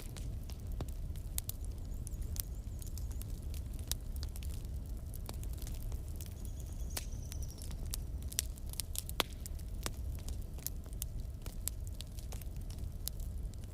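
Wood fire burning in a fireplace: frequent sharp crackles and pops at uneven intervals over a steady low rumble of flames, with a faint brief high whistle about halfway through.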